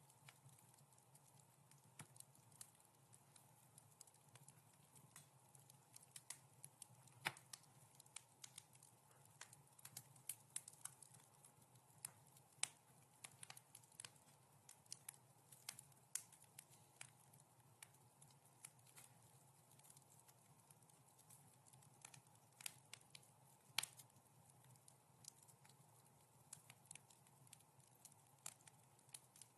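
Wood fire crackling faintly: irregular sharp pops and snaps, a few louder than the rest, over a soft steady low hum.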